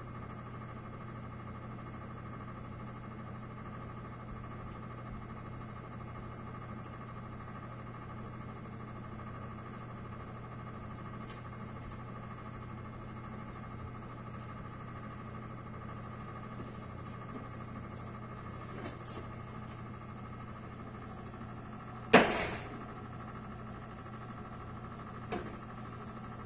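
Steady electrical hum in an empty room. About three seconds before the end there is one sudden loud bang that dies away within about half a second, then a fainter click a few seconds later.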